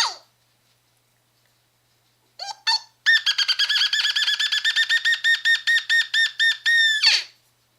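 An animal's call: the end of a falling note right at the start, then two short rising notes, then a fast, even run of clear high notes, about eight a second for some four seconds, ending in a longer note that slides down.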